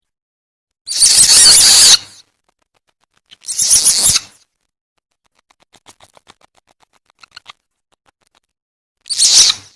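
Civet lure call: three harsh, screeching squeals. The second lasts over a second and the last is short. Between the second and third squeals comes a faint, rapid chattering of clicks.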